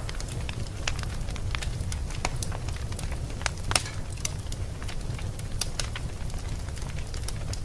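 Wood fire burning in a fireplace: a steady low rumble of flames with irregular sharp crackles and pops, one louder pop a little under four seconds in.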